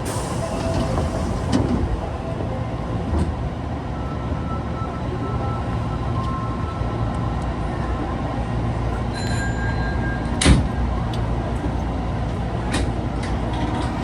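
Subway car interior running noise from an Osaka Metro 22 series train: a steady low rumble with faint tones that come and go, and one sharp knock about ten and a half seconds in.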